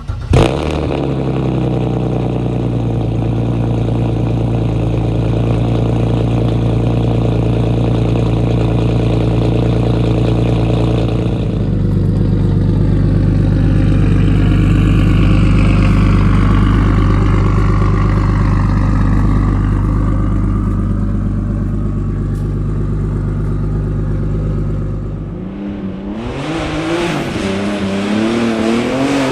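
Turbocharged BMW E46 engine firing up with a sharp burst, then running steadily. About twelve seconds in its sound changes. Near the end it revs up and down repeatedly, ahead of a burnout.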